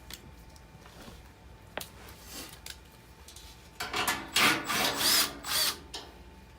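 Cordless power drill driving a screw in four or five short bursts close together, after a few light clicks of handling.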